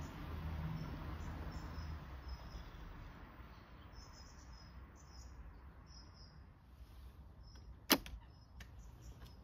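A garden-railway model train runs along its track with a low rumble that fades away over the first few seconds. Faint bird chirps follow, and there is one sharp click about eight seconds in.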